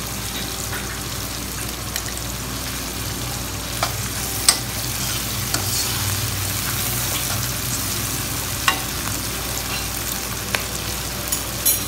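Onion, bell pepper and dried red chilli pieces sizzling in oil in a non-stick wok as they are stirred, with several sharp clicks of the spatula against the pan.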